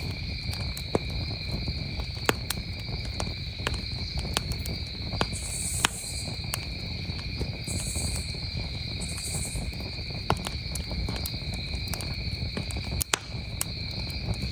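Campfire crackling with scattered sharp pops, over a steady, continuous chorus of crickets. Three short, higher buzzes come around the middle.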